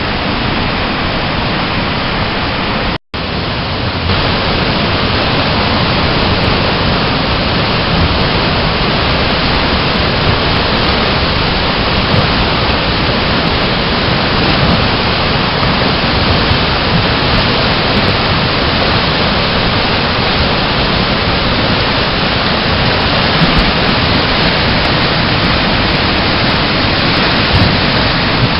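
Steady, loud rush of whitewater on a river, with a brief dropout about three seconds in.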